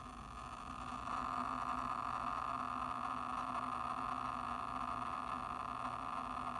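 Seagate Exos X16 12 TB hard drive, inside a Seagate Expansion enclosure, reading continuously during a quick-scan error test. It makes a steady rushing noise with a faint hum under it, which swells about a second in and then holds. This is the strange noise the new drive makes only while reading or writing.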